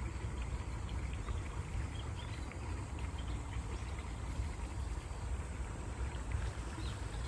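A stream of water flowing steadily, with a dense, continuous rush and small trickling splashes throughout.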